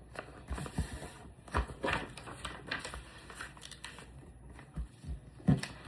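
A sheet of paper rustling and creasing as its corners are folded down, in scattered, irregular light crackles and taps.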